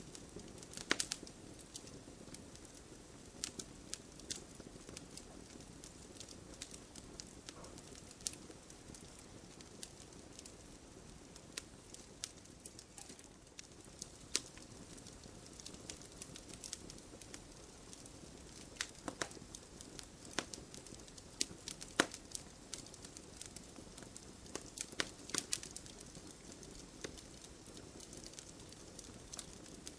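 Wood fire crackling in a fireplace: irregular sharp pops and snaps, some in quick clusters, over a steady low rush of flame.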